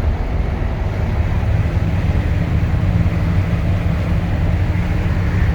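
1965 Ford F100 pickup heard from inside its cab while cruising at highway speed: a steady low engine drone mixed with road and wind noise.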